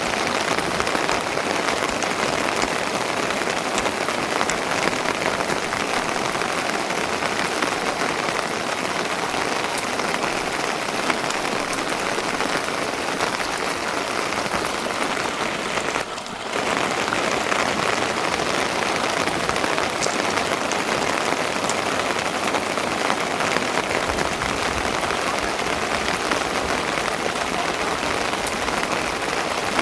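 Steady rain falling, an even dense patter, with a brief dip in level about halfway through.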